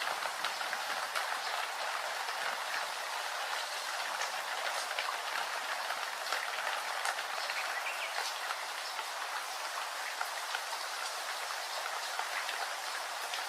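Steady rain, a constant hiss with many separate drops ticking through it.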